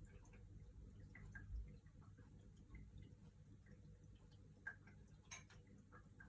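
Near silence: quiet room tone with faint, irregular small clicks and ticks, one slightly louder click about five seconds in.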